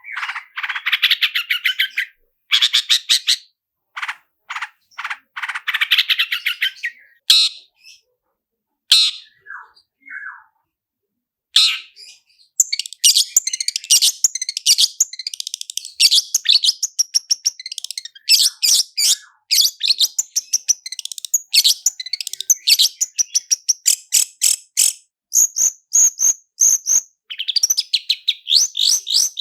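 Long-tailed shrike (cendet) singing fast rolling trills of quick repeated notes. Short bursts in the first few seconds, a pause with only a few notes about a third of the way in, then a long dense run of rapid notes.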